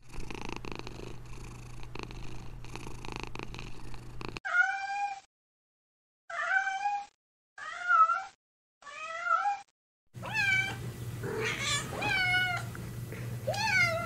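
Domestic cat purring steadily, then four short meows, each rising and falling in pitch with silences between them, then several more meows over continued purring.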